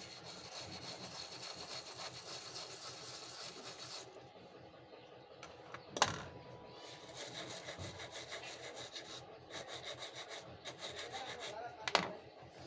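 Rapid back-and-forth scraping of a small tool or brush, in three spells, with a sharp click about six seconds in and another near the end.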